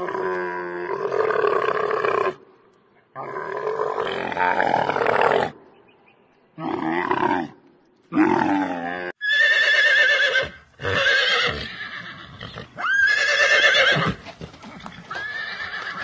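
Dromedary camel calling: four deep, drawn-out moaning calls with short gaps in the first nine seconds. From about nine seconds in come several higher, wavering calls, one sweeping sharply up in pitch.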